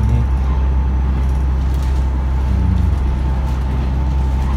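Diesel railcar running steadily, heard from inside the cabin: a constant low engine and wheel rumble with a faint steady whine above it.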